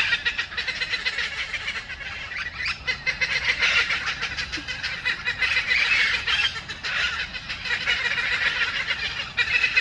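A flock of parakeets calling together in a tree: many overlapping, rapid chattering and screeching calls.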